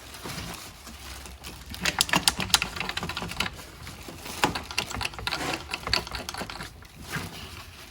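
Hand tools and metal engine parts clicking and clattering in irregular quick runs, thickest about two seconds in and again around the middle.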